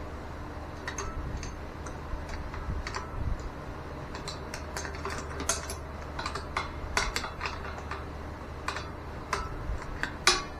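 Scattered light metallic clicks and clinks of hand tools and metal fittings being handled, over a steady low hum, with a sharper click near the end.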